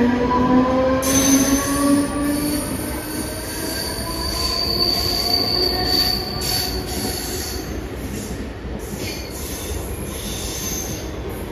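Mumbai suburban EMU local train moving along the platform: a whine rises in pitch over the first couple of seconds as it gathers speed, then a high, steady wheel squeal holds for a few seconds, with clicks of wheels over the rail joints.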